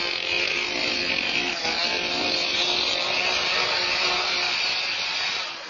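Chainsaw engine running at high speed, held steady, then cutting off near the end.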